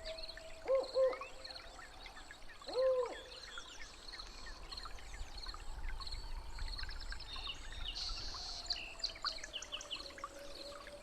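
Jungle animal soundscape: birds calling, with two quick calls about a second in and a longer one a couple of seconds later, over a steady rhythm of high insect-like chirps, about two a second, and scattered high twitters.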